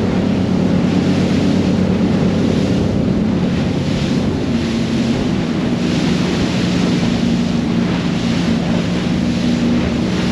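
Motorboat engine running steadily underway, its pitch shifting slightly about halfway through, over the rush of water against the hull and wind buffeting the microphone.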